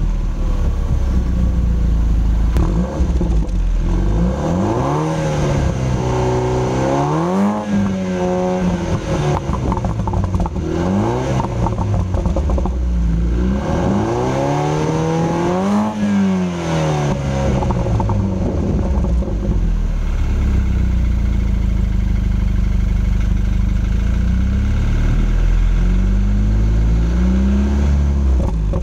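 BMW Z4 sDrive28i turbocharged 2.0-litre four-cylinder engine and exhaust, idling and then revved up and let fall back to idle several times. It then settles into a steady idle, with one more small blip near the end.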